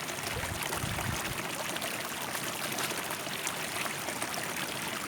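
River water flowing steadily, an even rushing and trickling.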